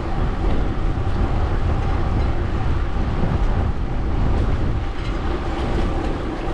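Steady low rumble of wind buffeting an action camera's microphone and bicycle tyres rolling on the road while riding, with a faint steady hum under it.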